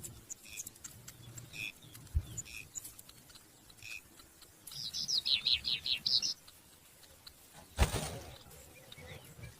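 Small birds chirping: scattered short chirps, then a quick run of high chirps about five seconds in. A sharp thump about eight seconds in.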